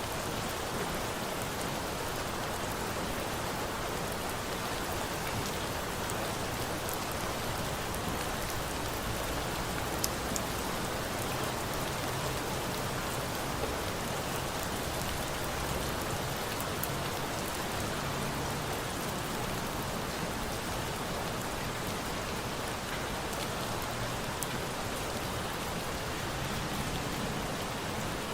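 Steady rain falling on a surface, with a few faint pops from a crackling bonfire, one about a third of the way in.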